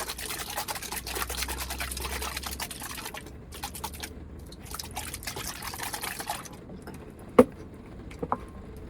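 A chilled sparkling grape jelly drink being shaken hard, the jelly and fizzy liquid sloshing in quick strokes with a couple of short breaks, stopping about six seconds in. A single sharp knock follows a second later, then a light click.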